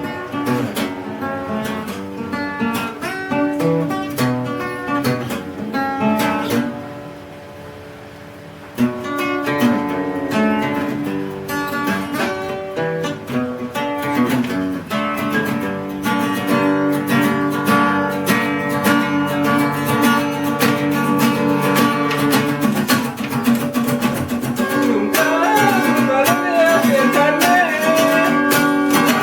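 Acoustic guitar music, plucked and strummed, dropping to a softer passage about seven seconds in and picking up again about two seconds later. A wavering melody line joins over the guitar near the end.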